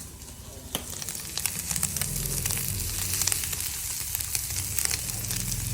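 Food frying in hot oil, sizzling and crackling. A sharp click comes just under a second in, then the crackle grows busier.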